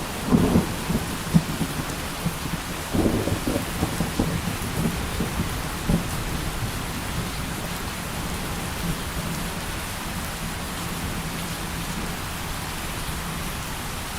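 Steady heavy rain with a roll of thunder, rumbling and cracking through the first six seconds or so, then dying away to the rain alone.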